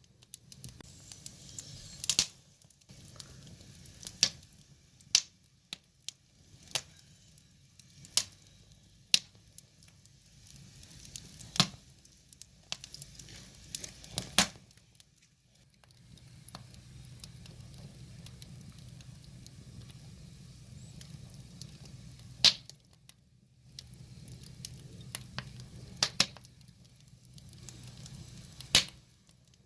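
Firewood logs burning and crackling, with sharp pops and snaps at irregular intervals over a low steady hiss.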